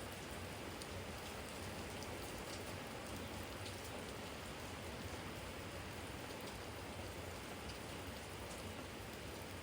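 Steady spring rain falling on a garden jar and the yard around it: an even hiss with scattered sharp drop ticks.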